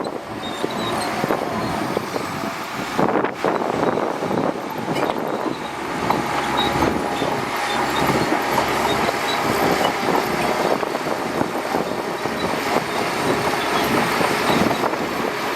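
Shantui DH17C2 crawler bulldozer running, its engine going steadily while its steel tracks clank and rattle.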